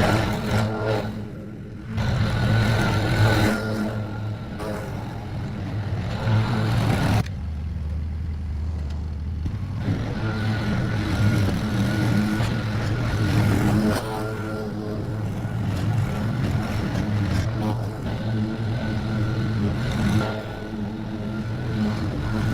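A small petrol engine running, its note shifting and changing abruptly several times.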